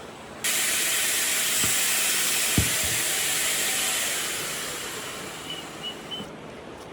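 A steady hiss of air spraying from a nozzle. It starts suddenly about half a second in and slowly fades, with a few light knocks in the middle.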